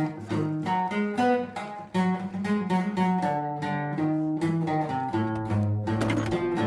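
Acoustic guitar playing a steady run of picked notes and chords.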